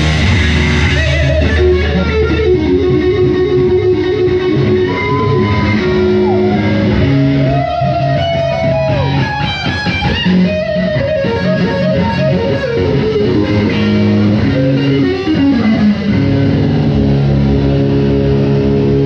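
Live rockabilly band playing: an electric guitar lead with bent notes over a steady bass line.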